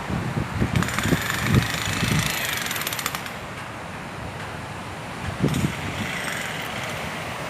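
Strong sea waves surging and breaking on the shore: a steady rushing, with a few low thumps in the first two seconds and again past the middle.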